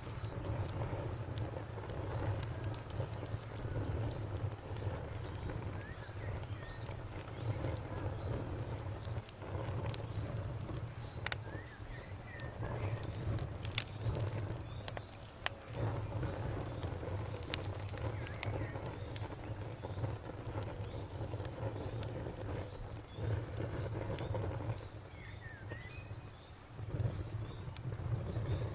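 Wood fire crackling, with sharp scattered pops over a low rumble, while a cricket keeps up a steady, fast high chirping. A bird chirps briefly a couple of times.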